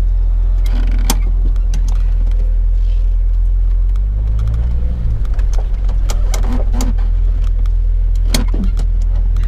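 Jeep 4.0 straight-six idling in drive, heard from inside the cab, its note rising and falling briefly about four seconds in as the Jeep starts to roll. A few sharp clicks and light rattles sound over the engine.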